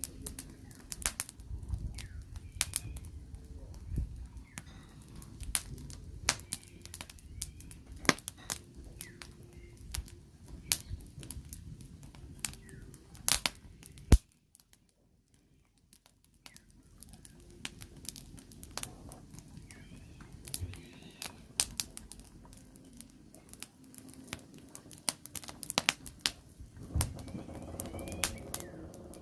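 Firewood burning, crackling with irregular sharp pops and snaps over a low rumble. It drops out for a couple of seconds about halfway through, then carries on.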